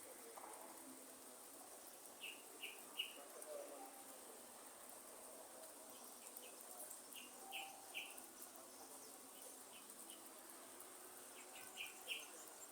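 Quiet rainforest ambience. A bird repeats a short three-note call about every five seconds over a faint, steady, high insect hum.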